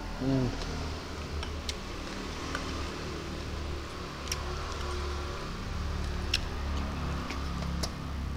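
Eating sounds of a man chewing a hand-eaten meal of rice: a short closed-mouth "mm" at the start, then scattered sharp clicks and smacks of chewing over a steady low hum.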